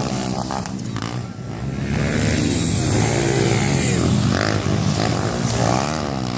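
Motocross motorcycle engines running and being revved, several at once, their pitch rising and falling repeatedly.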